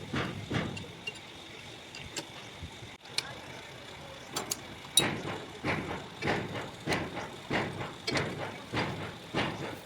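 Hand tools working on a truck engine being stripped down: a quiet start, then from about halfway a steady run of short metallic strokes, roughly one every half second, opened by a sharp clank.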